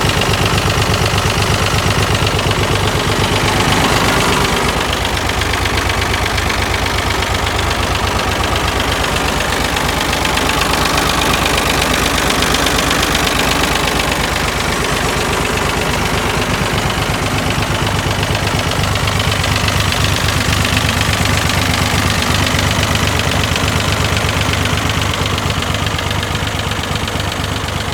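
A David Brown 885 tractor's three-cylinder diesel engine running steadily, its note shifting slightly about four seconds in.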